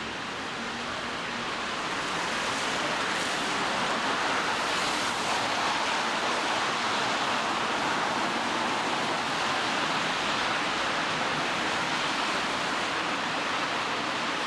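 Steady hiss of rain falling on a city street at night, swelling over the first few seconds and then holding even.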